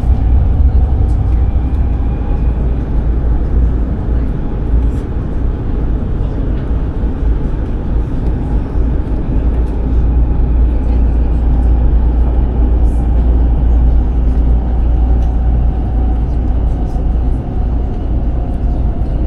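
Passenger train running: a steady, loud low rumble that holds without a break, with faint scattered high ticks over it.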